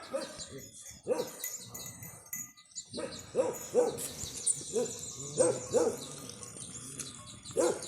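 A series of short, low animal calls repeated at irregular intervals, with small birds chirping high in the background.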